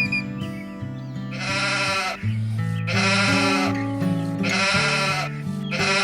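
Four bleats, each under a second long and spaced about a second and a half apart, the last starting near the end, over background music.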